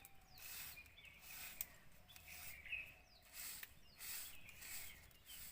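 Faint bird chirps, short and scattered, over soft rustling noise that comes and goes.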